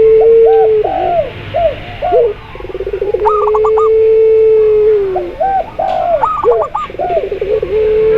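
Several doves cooing together: zebra dove, spotted dove and puter pelung dove. Long, level, drawn-out coos that open with a rapid stutter come round about every three to four seconds. Shorter rising-and-falling coos and quick, higher looping notes are mixed in between them.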